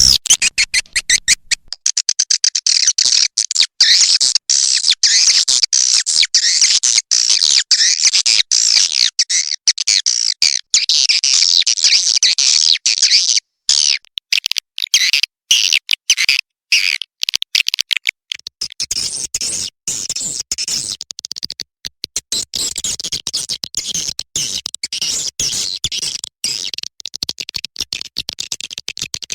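Recorded swiftlet calls played as a lure: loud, dense, high-pitched twittering and chattering of many swiftlets, chopped by many brief gaps, with a short break about fourteen seconds in.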